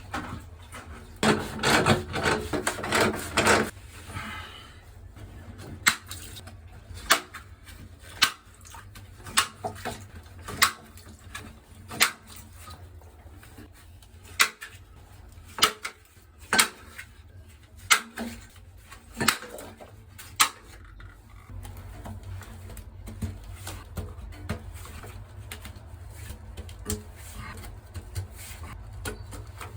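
Twelve short, sharp beeps about a second apart, one for each connection on a six-port heating manifold. They follow a few seconds of loud rubbing and handling noise.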